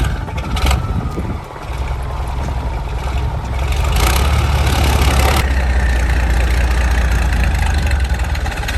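Log truck's engine running with a deep, steady drone. It grows louder about four seconds in, with a rush of hissing noise for over a second.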